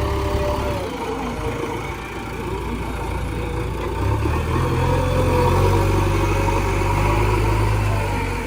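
Heavy diesel engine running at a loading site. Its low note drops back about a second in and picks up again from about four seconds in, as if the machine is working under changing load.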